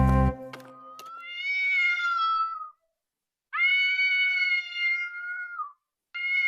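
Cat meowing: two long, drawn-out, high-pitched meows, and a third beginning near the end. The tail of a strummed acoustic guitar cuts off right at the start.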